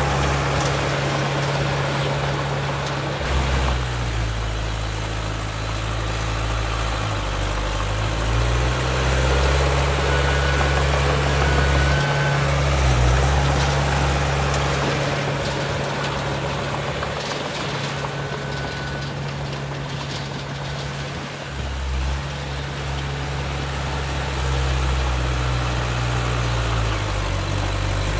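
Heavy diesel engine of earthmoving machinery running, a low drone that steps up and down in pitch every few seconds as the machine works.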